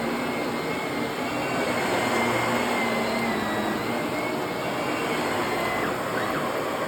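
Vacuum cleaner running steadily on carpet, a constant rushing noise with a high whine that wavers slightly in pitch.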